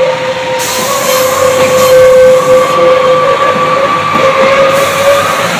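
Northern diesel multiple unit moving slowly past, its running sound carrying a steady high whining tone over a low rumble.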